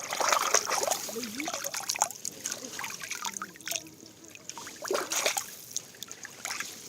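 Small forest stream trickling and gurgling as bottles are filled with water from it, with irregular splashes.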